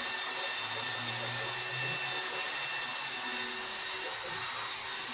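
A small electric motor running steadily with a rush of air and a steady whine.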